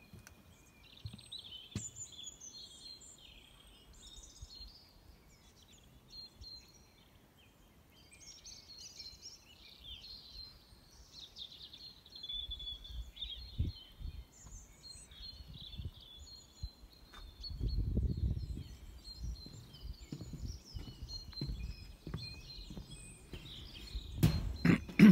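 Small birds singing, a steady tangle of short high chirps and warbles. A low rumble comes in about two-thirds of the way through, and there is a sharp knock near the end.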